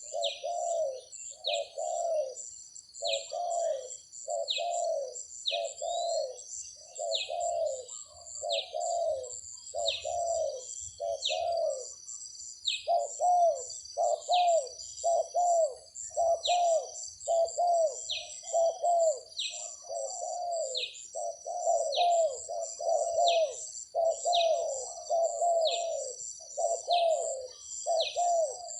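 Spotted doves cooing in a quick, unbroken run of low coos, over a steady high buzz of insects and short falling chirps of another bird about once a second.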